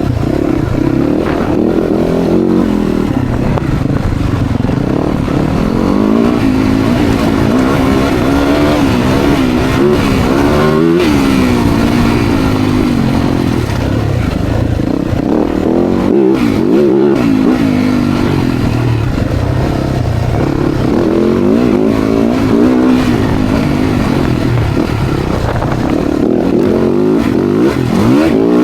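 Dirt bike engine running under way, its pitch rising and falling again and again with the throttle.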